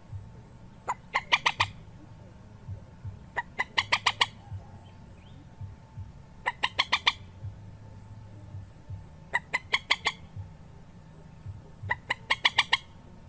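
Rail (mandar) calling, as used for a lure recording: five short bursts of rapid, sharp repeated notes, one about every two and a half seconds, over a low steady hum.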